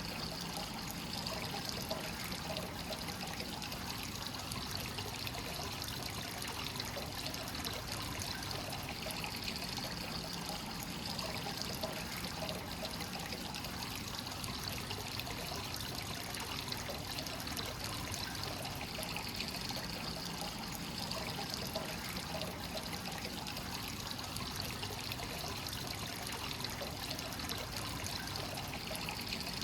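Hot-spring source water pouring steadily into a bath, a continuous splashing trickle.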